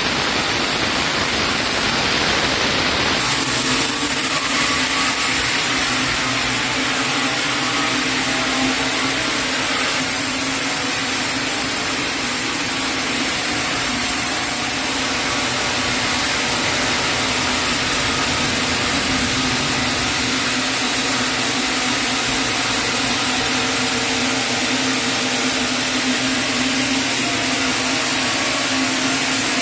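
Sawmill saw running steadily while sawing a chinaberry log into boards, a loud even machine noise with a steady low hum; the sound shifts about three seconds in, then holds.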